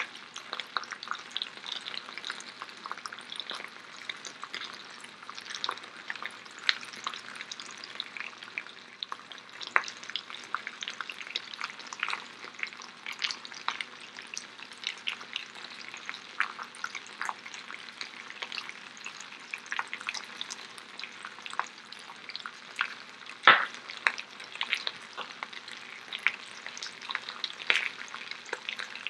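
Potato galettes frying in two skillets, a cast-iron pan and a non-stick pan: a steady sizzle with many small pops. One louder knock about four-fifths of the way through.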